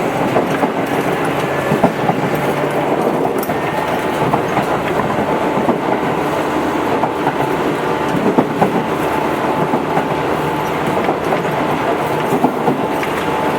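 Tobu 8000 series electric commuter train running steadily between stations. The wheels click over rail joints, over a steady rumble with a faint hum.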